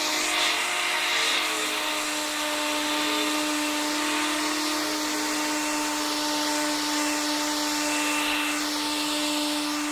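Electrolux vacuum cleaner running steadily: a constant motor hum over rushing air, with faint sweeping changes in the hiss.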